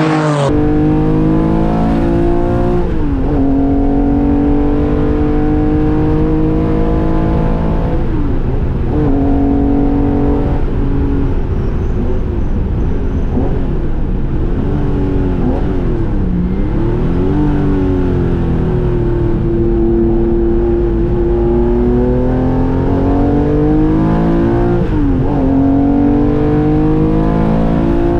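Porsche race car's air-cooled flat-six at racing speed, pulling up through the revs and dropping sharply at each gear change. Several times it falls away and picks up again, as when lifting and downshifting for corners.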